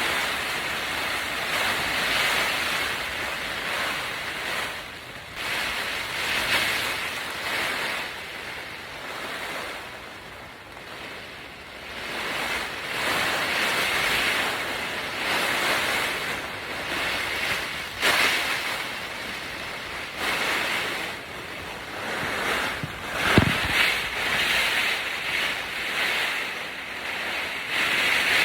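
Strong gusty wind, rushing louder and softer every few seconds, with a few sharp snaps in the second half.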